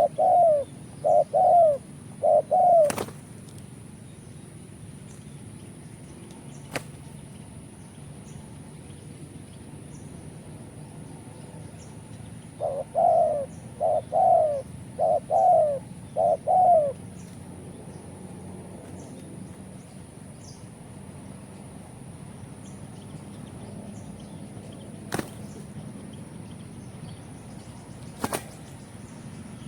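Spotted dove cooing: a phrase of about five repeated coos right at the start, then another about twelve seconds in, with quiet between. A few sharp single clicks come between the phrases, over a faint steady high hiss.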